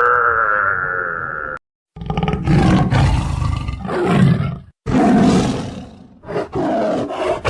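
A large animal roaring: a short, high, steady call at the start, then a series of long, deep, rough roars with brief pauses between them.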